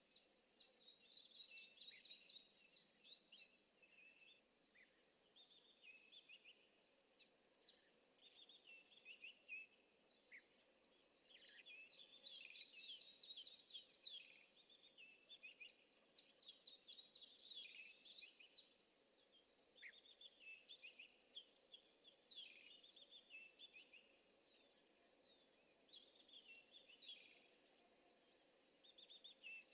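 Faint chorus of many small birds chirping and calling over one another, with quick runs of repeated notes and busier spells about a third of the way in and again just past the middle.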